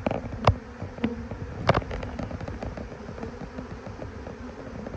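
Honeybees buzzing around an opened hive in a faint steady hum, under a run of small clicks and two sharp knocks in the first two seconds.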